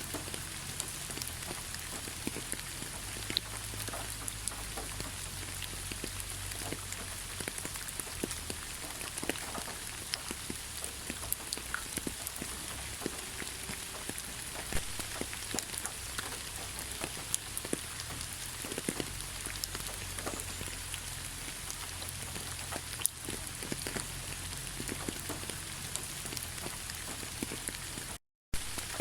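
Heavy rain falling steadily: a dense, even hiss dotted with the ticks of separate drops hitting a surface. The sound cuts out completely for a split second near the end.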